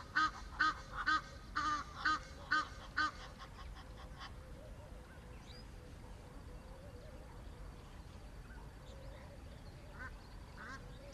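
A bird calling a rapid series of repeated, evenly spaced notes, about two a second, that stops about three seconds in. A few fainter calls follow near the end.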